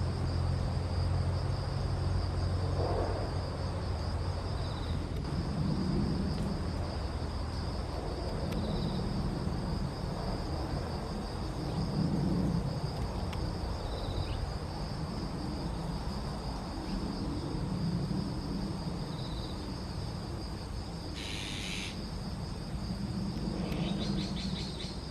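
Outdoor riverside ambience of crickets and other insects trilling steadily, with short high chirps every few seconds and soft low calls repeating about every three seconds. A single harsh, raspy burst comes about 21 seconds in.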